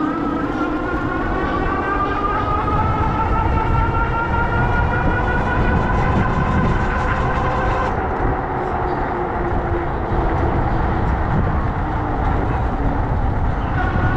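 A vehicle's motor whines as it speeds up, its pitch rising, over heavy wind rumble on the microphone. About eight seconds in the whine drops away, leaving mostly wind and road noise.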